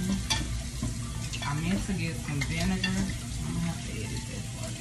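Turkey necks sizzling as they brown in hot oil in a stainless steel pot, with a steady hiss and frequent sharp pops of spattering fat.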